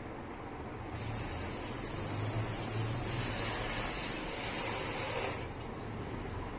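A steady spraying hiss starts abruptly about a second in and cuts off after about four and a half seconds.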